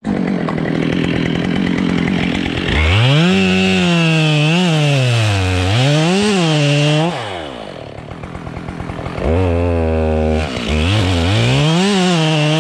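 Husqvarna 572 XPG two-stroke chainsaw running at high revs and cutting wood, its engine pitch dipping and recovering as it bogs under load in the cut. About seven seconds in it drops to a lower, quieter idle, then is revved back up and cuts again for the last few seconds.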